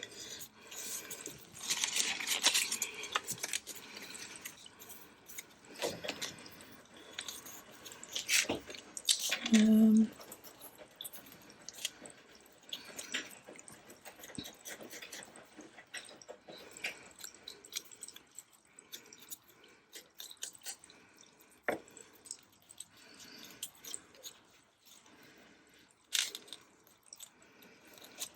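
Paper and card being handled and worked on a desk: rustling, brushing and scattered light taps and clicks, busiest in the first ten seconds, with a brief voice sound about ten seconds in.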